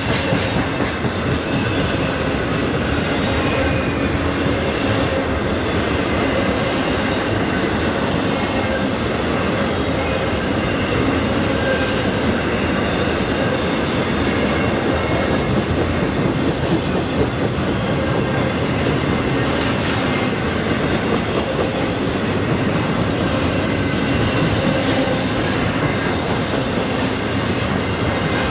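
Intermodal freight train passing close by at speed: the steady rumble and clatter of wheels on the rails as flatcars loaded with truck trailers and containers roll past.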